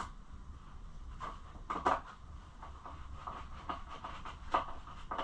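Scattered light clicks and knocks of hand tools and small parts being handled, the loudest a couple of seconds in, over a low steady hum.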